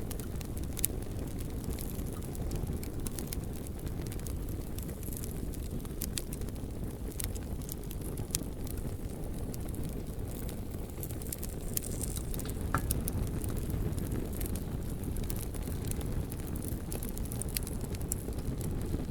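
Campfire crackling, with scattered sharp pops from the burning wood over a steady low rumble.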